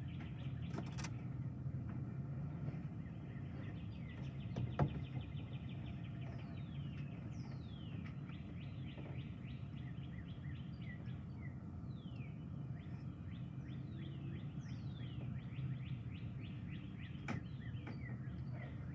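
Birds calling outdoors: repeated quick falling whistles and a dense, rapid high ticking, over a steady low rumble of outdoor noise. A couple of sharp clicks come in the first few seconds.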